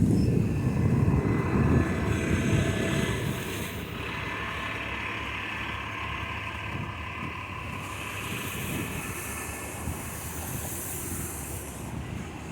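Street traffic noise: a vehicle passes close in the first three seconds with a loud low rumble, then a steadier traffic hiss, with a brief higher hiss later on.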